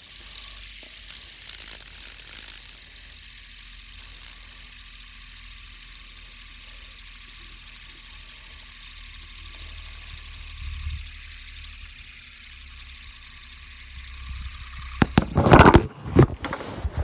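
Fidget spinner whirring steadily on its bearing, then about fifteen seconds in it knocks into a phone and clatters as it falls.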